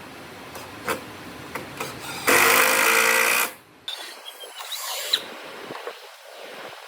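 A power tool's motor runs in one loud burst of about a second, starting about two seconds in. Scattered clicks and knocks of handling come before and after it.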